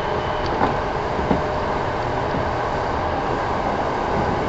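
Kintetsu 1000 series electric train running between stations: a steady rolling rumble, with two sharp wheel clacks about a second in, under a second apart.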